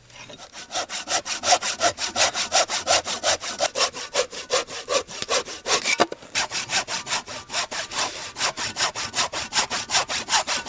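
Hand saw cutting through a wooden board, fast even back-and-forth strokes about four a second, with a brief pause about six seconds in.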